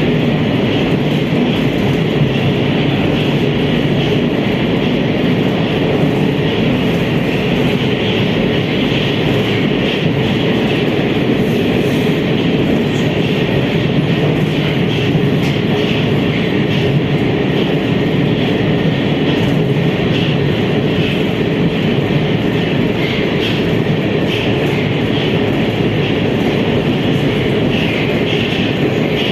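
Metro train running at speed through a tunnel, heard from inside the carriage: a steady loud rumble of wheels on rails and running gear.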